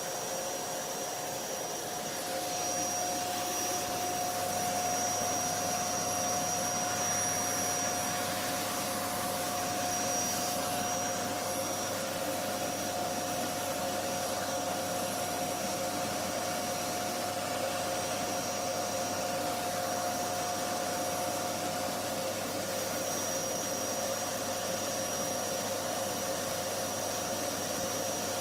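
Vacuum cleaner running steadily: a constant rush of air with an even motor whine that does not change.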